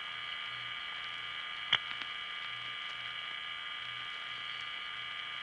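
Open long-distance telephone line between intercept announcements: a steady hum and hiss with a faint high tone, a low hum that comes and goes, and a single click about two seconds in.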